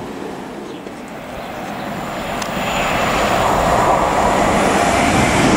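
LNER Azuma high-speed train approaching at speed: a rushing roar that grows steadily louder from about a second and a half in.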